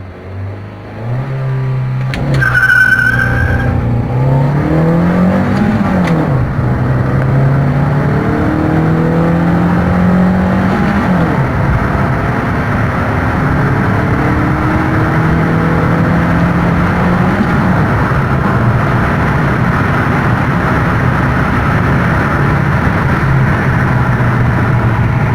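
Honda Brio Satya's engine under hard acceleration from a standstill: a brief tyre squeal just after launch, then the revs climb and drop back at three upshifts, with road and wind noise building as speed rises.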